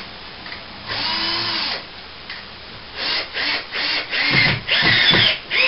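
Cordless drill-driver driving screws up into a plasterboard ceiling patch. One longer run about a second in, then a string of short bursts from about three seconds on as the screws are pulled home.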